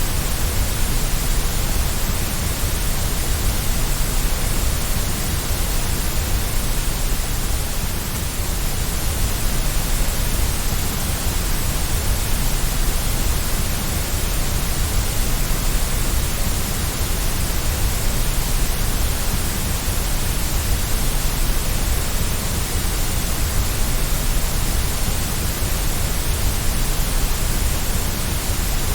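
Steady white noise for soothing a baby to sleep: an even, unchanging hiss with a strong deep low end.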